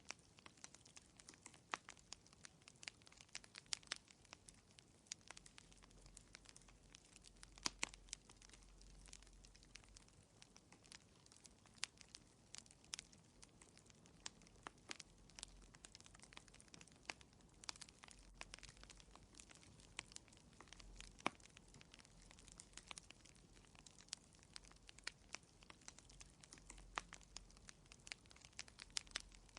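Faint fireplace fire crackling: irregular small pops and snaps, several a second, with a few louder ones, over a faint low hum.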